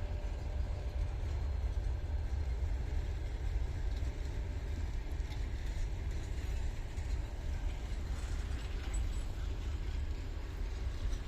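Passenger train coaches rolling slowly past on arrival, a steady low rumble with a few faint clicks.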